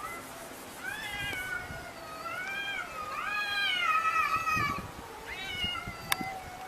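Domestic cats yowling at each other in a standoff. It is a run of four drawn-out calls, each rising and falling in pitch, the longest lasting nearly two seconds, with a sharp click near the end.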